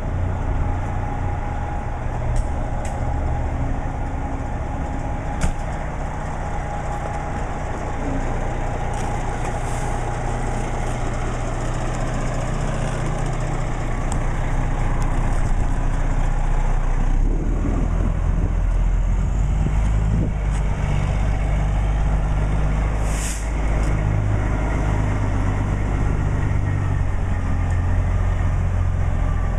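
Fire truck's diesel engine running, getting louder a little past halfway through, with one short, sharp air hiss from the air brakes about two-thirds in.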